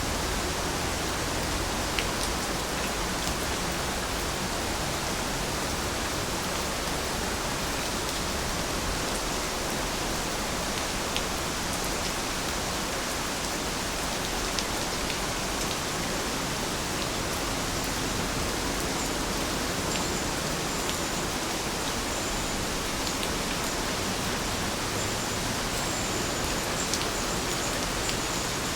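Steady rainfall, an even hiss of rain with a few sharper drop ticks here and there.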